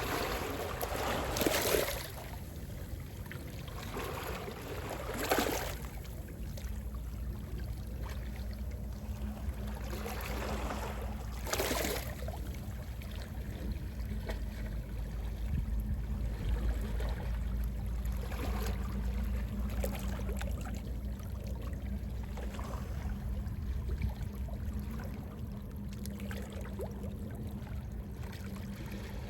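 Gentle sea waves washing onto the shore over a steady low rumble, with a few louder washes near the start and around the middle.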